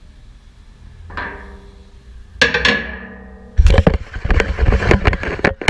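Metal engine parts being handled while the overhead-cam cover is taken off. Two ringing metallic knocks come about a second apart, followed by a couple of seconds of rapid clinking and clattering.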